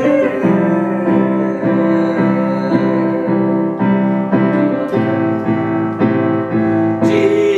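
Piano chords played in a steady repeated rhythm, a little under two strikes a second, as the accompaniment to a sung song.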